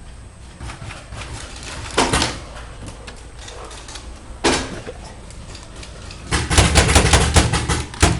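Paintball marker firing: a single shot about two seconds in, another a couple of seconds later, then a rapid string of about ten shots at roughly five a second near the end.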